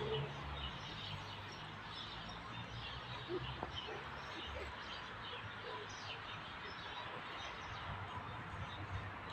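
Faint outdoor background of scattered small bird chirps over a low, steady rumble.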